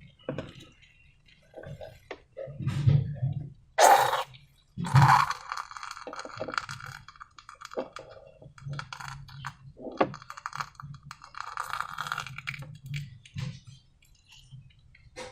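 Slime being handled with balloons: irregular sticky squishes, crackles and small clicks, with two louder bursts about four and five seconds in.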